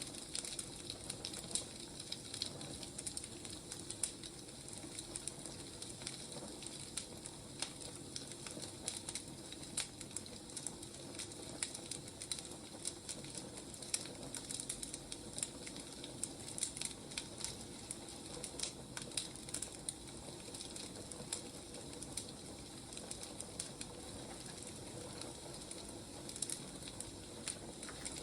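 Firewood burning: a steady soft hiss with frequent irregular crackles and pops.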